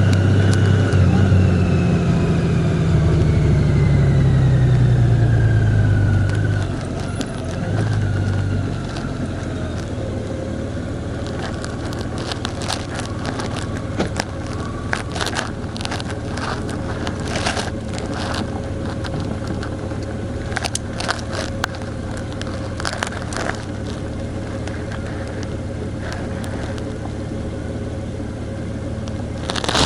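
A vehicle's engine slowing down, its pitch falling over the first several seconds, then settling to a steady low running hum. Irregular sharp clicks and crackles come in from about a third of the way through.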